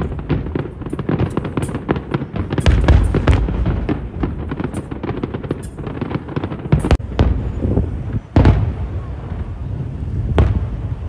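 Aerial fireworks bursting: a dense run of rapid crackling bangs and deep thuds, thinning out in the second half into a few single, louder bangs.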